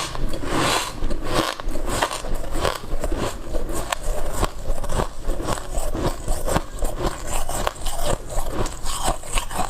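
Close-miked biting and chewing of white ice: dense, irregular crunches and crackles throughout.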